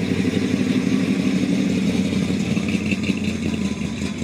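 A vehicle engine running steadily with a fast, even beat.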